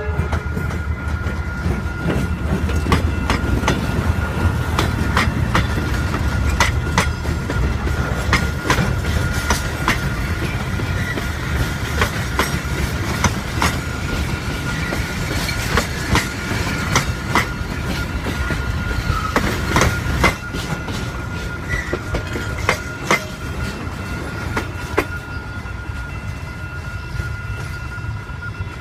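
Train wagons rolling past, with a steady low rumble, a steady high-pitched tone, and irregular clicks of wheels running over rail joints that grow sparser near the end.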